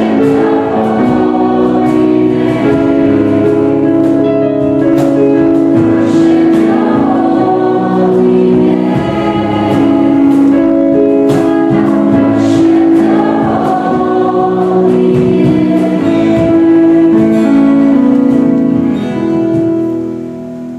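Choir singing with instrumental accompaniment, moving through held chords; the music ends and fades out near the end.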